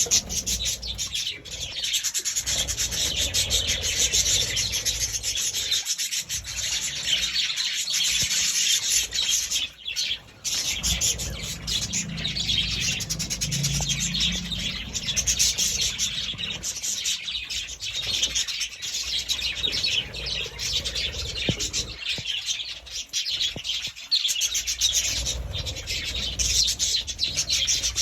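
Budgerigars chattering, a dense and continuous stream of rapid chirps.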